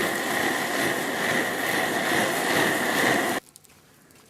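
Camping stove burner giving a steady roar with a constant hiss-like tone, which cuts off suddenly about three and a half seconds in; faint crackling of the campfire follows.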